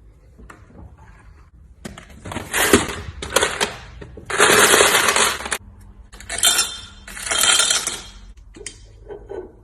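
Kitchen clatter: about five short bursts of clinking and rattling, the longest and loudest lasting about a second near the middle.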